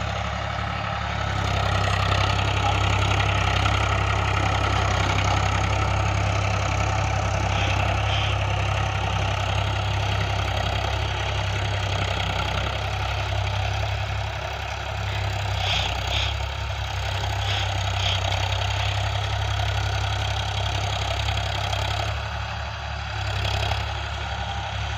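Tractor engine running steadily under load, driving a rotavator off its PTO at 540 rpm, with a strong low hum and the dense churning noise of the working machinery. The level rises slightly about two seconds in.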